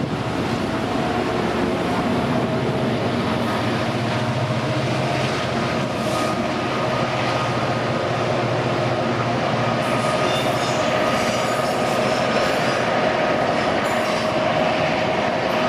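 A train running along the track, its wheels rumbling steadily with a held whine over them, growing slightly louder toward the end.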